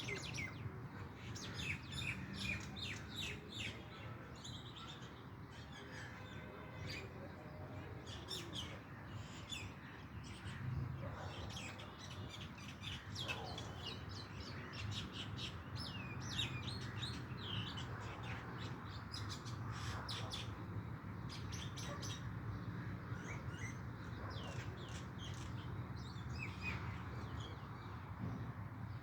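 Small birds chirping and twittering in many quick, short, high notes throughout, over a steady low background hum.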